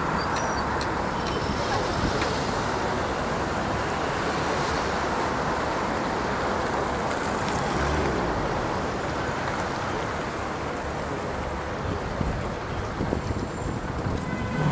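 Steady rushing of wind and water during a boat ride along a canal, with no clear motor tone.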